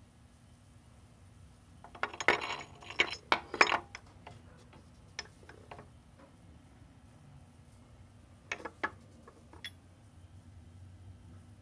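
Clinks and knocks of small hard parts being handled, in a quick cluster about two seconds in and a few more near the end.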